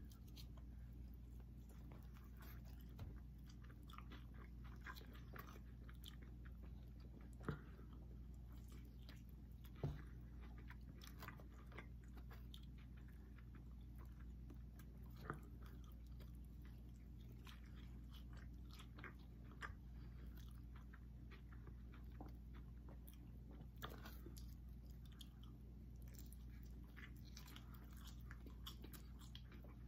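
People chewing and biting into cheese sticks and pizza: soft, scattered mouth smacks and small crunches, with a few sharper clicks, the loudest about ten seconds in, over a low steady hum.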